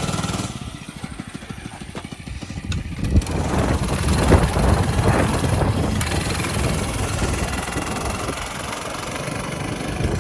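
A mini bike's small engine running, quieter at first, then revving up and running louder from about three seconds in.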